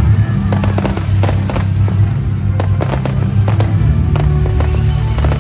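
Aerial fireworks going off in a rapid, irregular series of sharp bangs and crackles, over loud music with a steady low bass.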